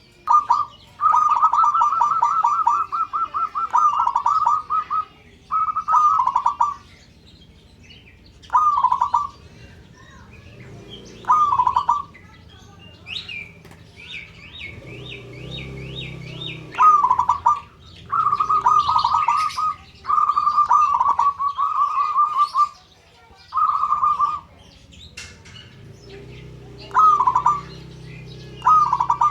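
Zebra dove (perkutut) calling: about a dozen phrases of rapid trilled cooing, some short, some running on for two or three seconds, with pauses between. Around the middle a short run of about six higher, quick rising-and-falling notes comes from another bird.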